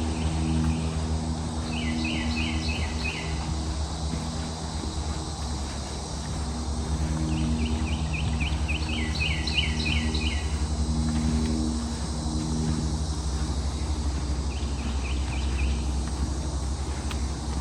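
Rapid series of high, downward-sweeping chirps from a small animal in the swamp, coming in three short bouts: about two seconds in, again around eight to ten seconds in, and briefly near the end. A steady low engine drone hums underneath.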